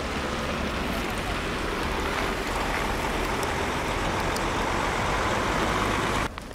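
Steady road traffic noise of vehicle engines and tyres, cutting off suddenly near the end.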